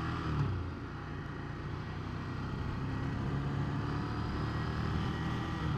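Ducati 797's air-cooled L-twin engine running while riding at a fairly steady speed, with wind rush over the microphone.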